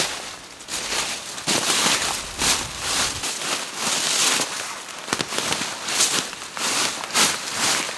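Dry wood and forest litter crackling and snapping irregularly, with a few sharp louder snaps.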